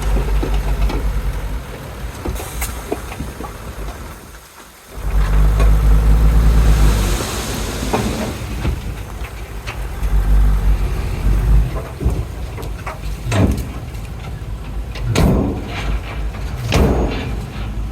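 Heavy diesel earthmoving machinery running, its engine a strong low rumble that nearly drops out about four seconds in and comes back loud just after, with several sharp knocks in the second half.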